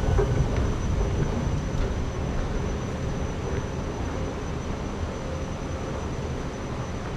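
Steady low rumble of vehicle noise with a faint high, steady whine above it, easing slightly after the first couple of seconds.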